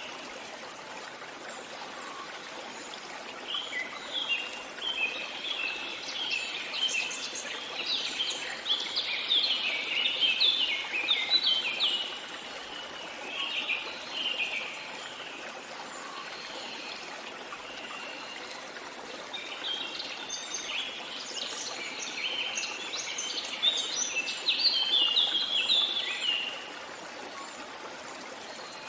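A songbird singing in phrases of many quick notes, in two long bouts with a brief one between, over the steady rush of flowing stream water.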